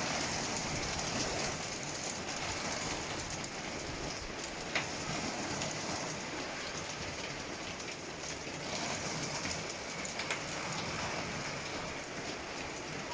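Hailstones and rain pelting hard surfaces in a dense, steady patter of many fine ticks, with a sharper single impact about five seconds in and another about ten seconds in.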